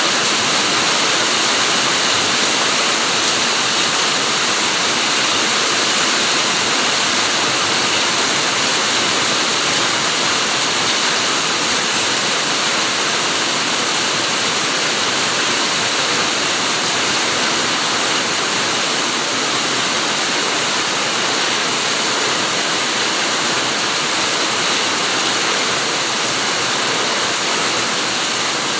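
Steady rain, an even, unbroken hiss with no separate drops, thunder or other events standing out.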